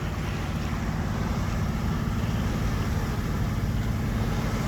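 A sailing yacht's engine running steadily while motor sailing, a low rumble with a fast even beat, under a steady hiss of wind and water.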